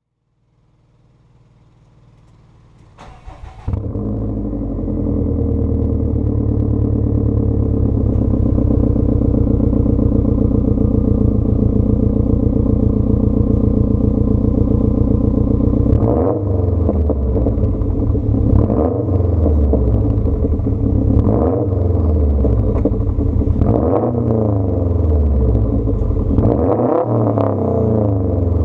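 2015 Subaru WRX STI's turbocharged flat-four, with a 3-inch catless downpipe and muffler delete, starting up about four seconds in and settling into a loud, steady idle. From about halfway on it is revved in five quick blips, each rising and falling back to idle.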